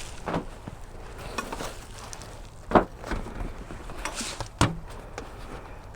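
A few sharp knocks and scrapes of beehive equipment being handled as a hive top feeder is opened and checked, the loudest knock about three seconds in.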